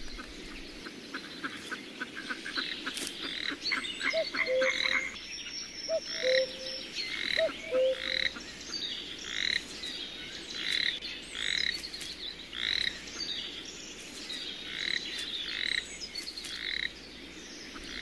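Frogs calling: a rapid pulsed trill in the first few seconds, then single croaks about once a second, with a few short lower calls in between.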